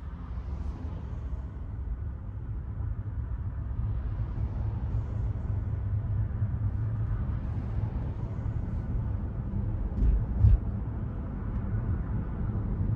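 Steady road and tyre noise from an electric Tesla cruising, heard inside the cabin as a low rumble. There are two short thumps just after ten seconds in, like the tyres hitting a bump or road joint.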